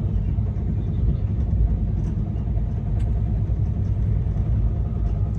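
Passenger train running at speed, with a steady, even rumble from the wheels on the rails.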